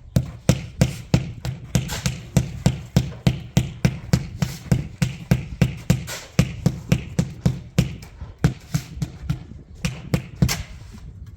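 Steady, rhythmic thudding, about three blows a second, that stops shortly before the end.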